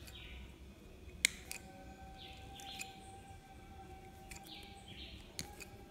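Faint bird chirps repeating every second or two in the background, with a sharp click about a second in.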